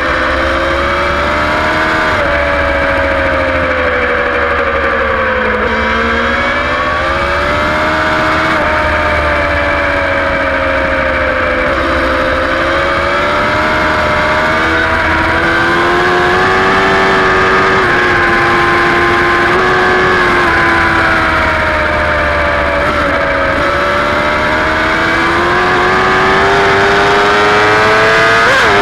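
Superbike engine at racing speed, recorded onboard. Its pitch drops over several seconds near the start as the bike slows for a corner, climbs and holds, dips again about two-thirds of the way through, and climbs again near the end as it accelerates.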